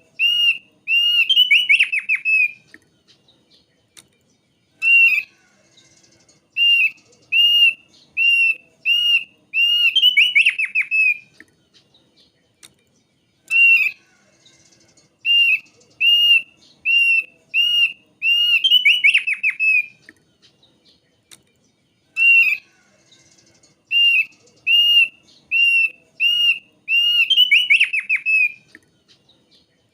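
Thick-billed white-eye singing: phrases of evenly spaced, arched whistled notes, each ending in a rapid tumbling trill, repeated four times with short pauses between.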